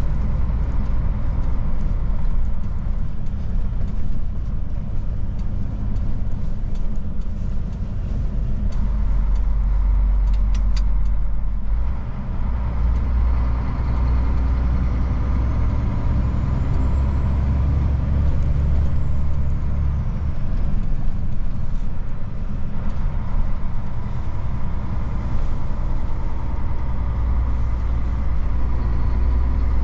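Old Mercedes truck's diesel engine running on the move, a steady low drone whose note changes about twelve seconds in.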